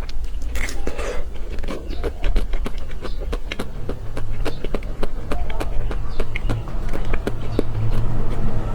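Close-miked eating of a chocolate-coated ice cream bar: rapid crackling and cracking of the chocolate shell with wet chewing and mouth clicks, over a low steady rumble.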